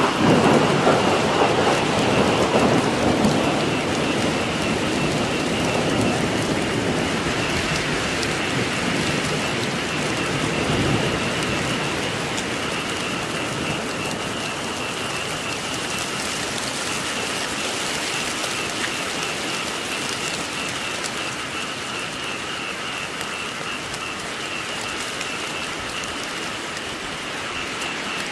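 Steady heavy rain falling, with a low roll of thunder that is loudest at the start and dies away over the first dozen seconds.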